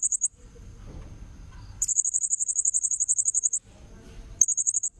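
Blue-crowned hanging parrot (serindit) calling in very high-pitched, rapid pulsed trills: a call ending just after the start, a longer trill of nearly two seconds in the middle, and a short one near the end. It is a lure call used to attract wild serindit.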